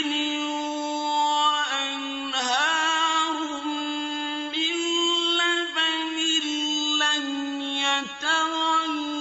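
Male Quran reciter chanting in a slow, drawn-out melodic style, with long held notes that step between pitches and carry ornamented turns, broken by a brief breath near the end.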